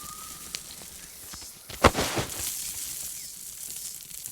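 Rainforest ambience with a steady high insect hiss, a few faint rustles, and a sharp crack about two seconds in, like a snapping twig or rustling branch.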